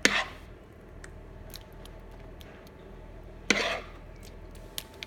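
Kitchen utensil scraping and knocking in a baking dish as bolognese sauce is spread over the lasagna pasta: two short sharp scrapes, one at the start and one about three and a half seconds in, with faint clicks between.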